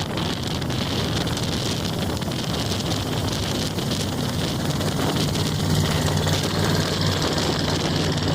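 Truck engine idling with a low steady hum that grows stronger about five seconds in, under wind noise on the microphone.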